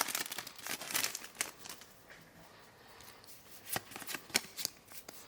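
Pokémon trading cards being handled and slid against each other: a scatter of light clicks and rustles, quieter for a moment in the middle, then a few more clicks.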